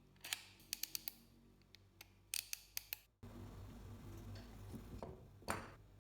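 Olympia Splendid portable typewriter clicking: a quick, irregular run of sharp mechanical clicks in the first three seconds. Then the background turns louder and noisier, with one sharp click near the end.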